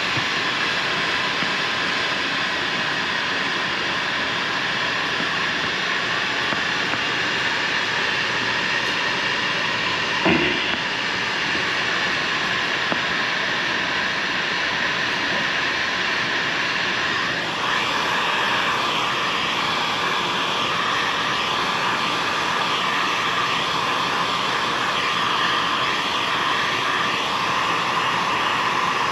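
A small motor running with a steady whine. About two-thirds of the way through, its pitch steps up and the whine grows stronger.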